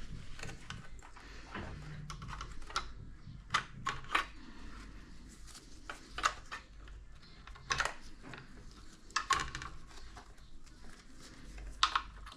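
Irregular light clicks and taps of small hard objects being handled, a dozen or so spread over several seconds, with the sharpest pair near the end, over a low steady hum.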